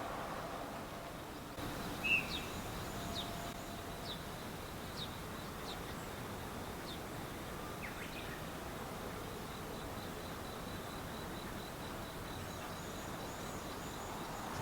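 Quiet outdoor ambience with short, high, falling bird chirps, about one a second through the first half, over a thin steady high tone.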